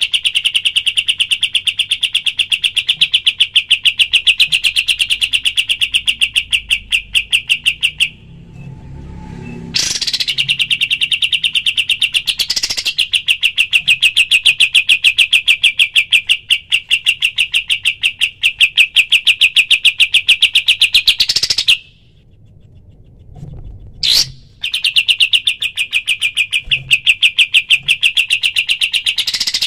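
Kapas tembak songbird singing its rapid-fire trill: a very fast, even stream of high chirps in long runs, broken by two short pauses about eight and twenty-two seconds in. Several runs end with a brief rising note.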